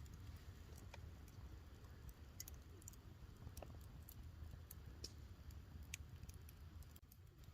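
Wood campfire crackling faintly: scattered sharp pops and snaps over a low, steady outdoor rumble.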